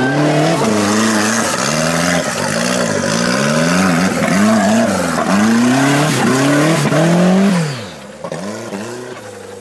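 Engine of a modified off-road 4x4 revving hard under load as it climbs a loose dirt bank, its pitch rising and falling over and over with each blip of the throttle. The sound drops away sharply near the end as the vehicle pulls off.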